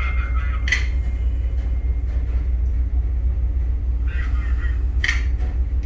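Steady low rumble, even in level, with faint voices briefly about a second in and again near the end.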